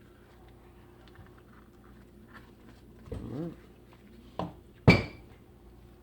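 Bench handling sounds: a small knock, then a sharp, hard clink with a brief ring, as of a hard object set down on a hard surface. Shortly before, a short hum-like vocal sound.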